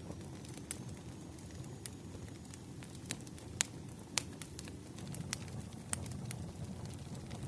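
Wood fire burning, logs crackling: a steady low rumble with irregular sharp pops and snaps, about a dozen of them.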